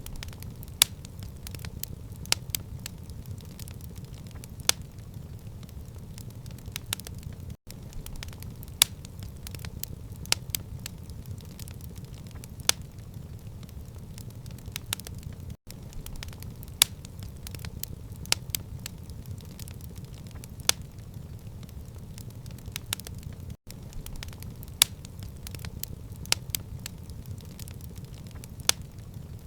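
Wood fire crackling in a stone fireplace: a steady low rumble of flame with sharp, irregular pops and snaps. The sound drops out for an instant about every eight seconds.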